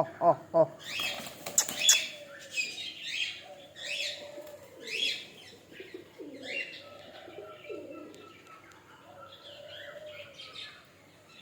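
Budgerigars chirping and chattering, with a brief flurry of wing flapping in the first two seconds.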